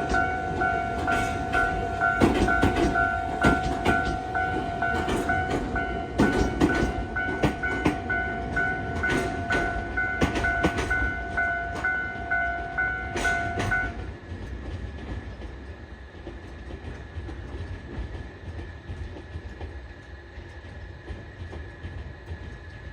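Tobu Urban Park Line electric train running slowly into the depot, its wheels clicking over rail joints, with a steady pulsing tone alongside. Both stop suddenly about two-thirds of the way through, leaving a quieter hum.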